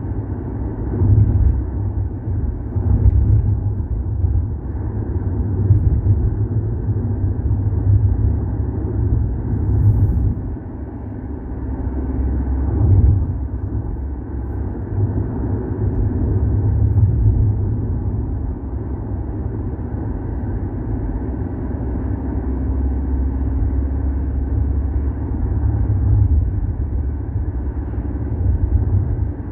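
Steady low rumble of a car on the move: road and engine noise, loudest in the deep bass and rising and falling a little without pause.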